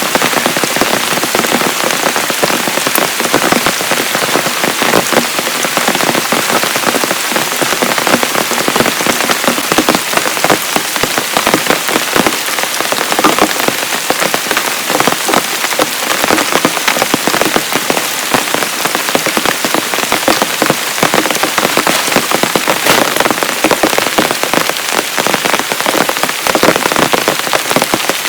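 Heavy rain falling steadily, with dense, closely spaced drop hits on a surface near the microphone.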